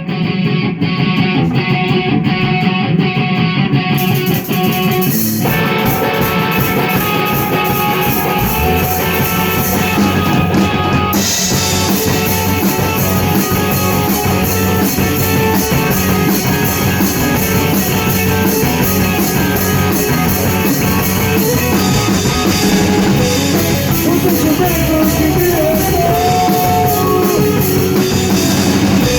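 Rock band playing in rehearsal: an electric guitar starts alone, then drums and bass come in about five seconds in and the band plays on fuller from about eleven seconds in.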